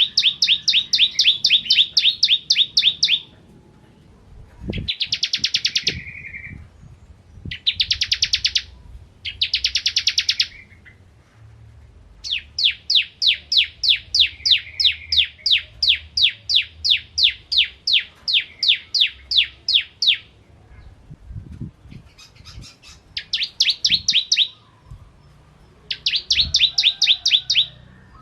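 Bar-winged prinia (ciblek) calling in fast runs of sharp, evenly repeated chirps, several bursts broken by short pauses, the longest lasting about eight seconds in the middle. A few faint low knocks sit under the calls.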